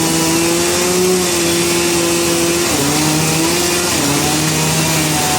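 Sawmill machinery running steadily with a strong hum, its pitch dipping briefly about three seconds in and again about four seconds in, as if taking load.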